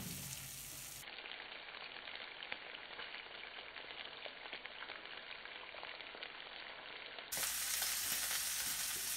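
Flour-dusted cuttlefish strips sizzling in butter and olive oil with onion and garlic in a frying pan, a steady crackling fry that steps louder about seven seconds in.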